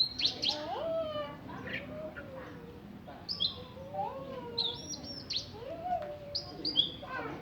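Oriental magpie-robin (kacer) singing a rapid, varied song of clear whistles, sliding notes and sharp downward-sweeping calls.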